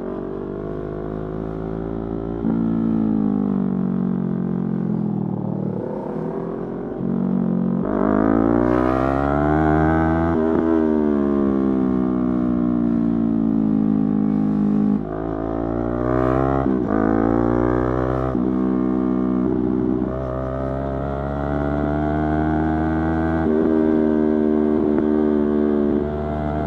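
Yamaha YZF-R3's parallel-twin engine on the move, its note rising and falling repeatedly as the bike accelerates and slows. There are abrupt jumps in pitch at gear changes.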